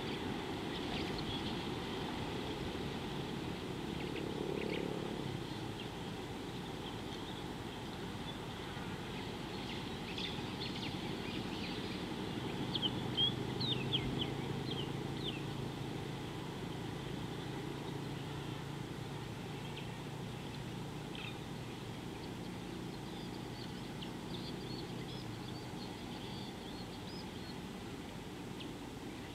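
Outdoor ambience with scattered short bird chirps, a quick cluster of them about halfway through, over a faint steady low hum.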